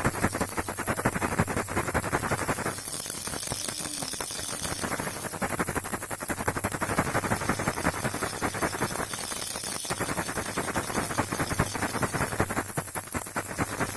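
Baby rattle shaken without pause, a dense, rapid clatter of small clicks, over a steady low hum.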